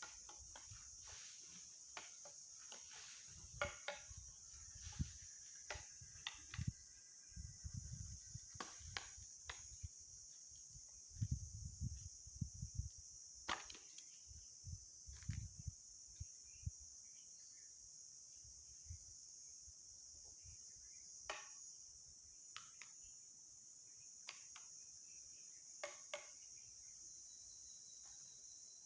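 A steady high-pitched insect chorus, with scattered snaps, cracks and dull knocks of dry sticks being broken and handled, mostly in the first half.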